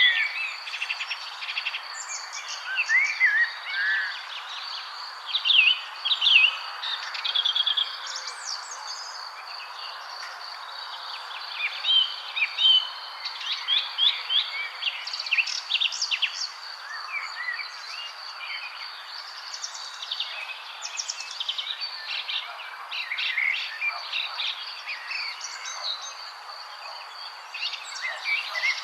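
Several songbirds chirping and singing in short, overlapping phrases of quick trills and rising and falling notes, over steady outdoor background noise and a continuous high, thin whine.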